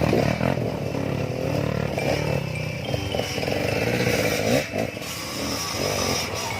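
Trail dirt bike engine running, its pitch rising and falling as the throttle opens and closes.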